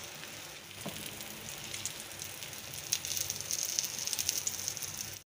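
Egg batter frying in ghee in a pan: a steady sizzle with small crackling pops, growing louder about three seconds in, then cutting off suddenly just before the end.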